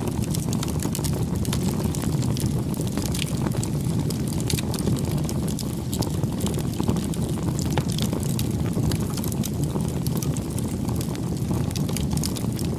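Wood bonfire burning: a steady low noise of the flames with frequent small, sharp crackles and pops scattered throughout.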